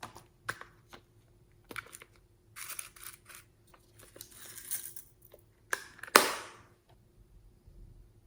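Close-up handling of small containers and packaging: a few light clicks, a crinkling rustle for about two seconds, then two sharp plastic snaps about six seconds in, the second the loudest.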